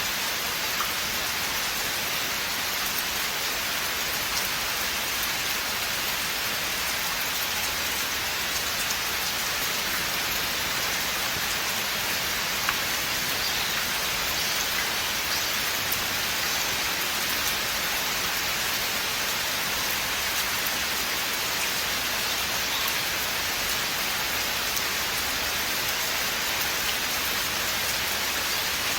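Steady rain falling in a forest: an even, unbroken hiss of many drops, with the odd single drop ticking out a little more clearly, once about halfway through.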